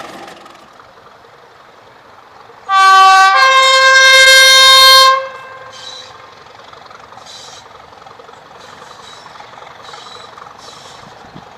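Class 31 diesel locomotive's two-tone horn, very loud: a brief lower note, then a higher note held for about two seconds. A steady rumble runs underneath, and a few short, faint hisses follow.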